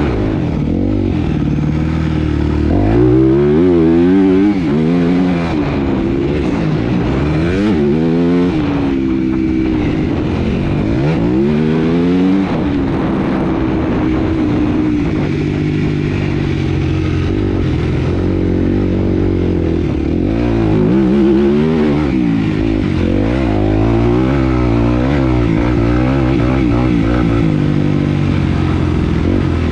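Motocross bike engine running hard, its pitch repeatedly climbing and dropping as the rider accelerates, shifts and backs off around the dirt track.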